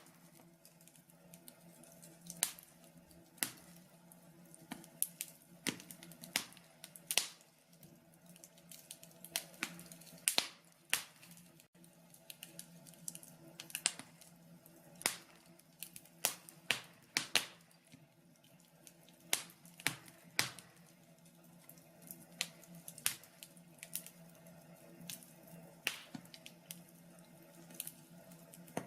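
Wood logs burning in a log burner, crackling with irregular sharp pops, some louder than others, over a steady low hum.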